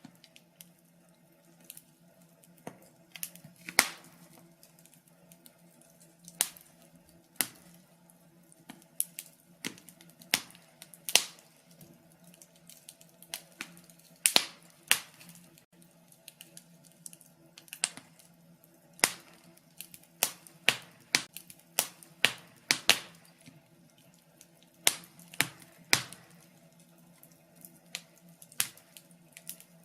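Wood fire crackling in a fireplace: irregular sharp pops and snaps, a few louder ones, over a faint steady hum.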